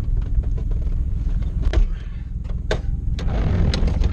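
1996 Toyota Celica's four-cylinder engine running with a rough, steady rumble while the car is driven over rough ground. Several sharp knocks and rattles come over it, and there is a rush of noise near the end.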